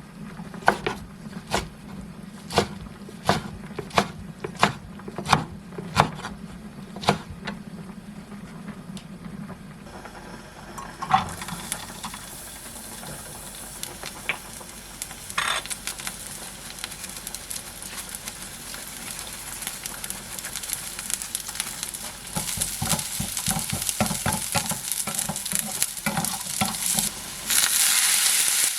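About a dozen evenly spaced knocks, like a knife chopping on a wooden cutting board, in the first nine seconds or so. Then food sizzling in a frying pan as it is stirred, the sizzle growing louder and jumping up sharply near the end.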